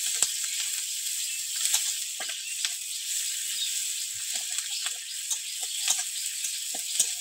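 Chopped onion, garlic and slit green chillies sizzling in hot oil in a metal wok, with a steady hiss. A metal spatula scrapes and clinks against the pan now and then as they are stirred.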